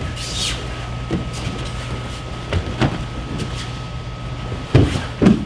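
Feet stepping and thudding on a training mat with the swish of moving clothing, over a steady low air-conditioning hum; two heavier thumps near the end.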